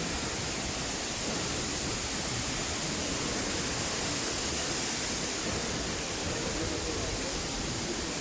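Steady, even hiss with no changes or distinct events, strongest in the high end.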